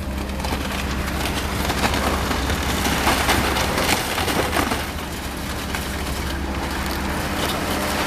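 Demolition excavator running with a steady low engine hum while it crushes the building, with continuous crunching and crackling of breaking debris.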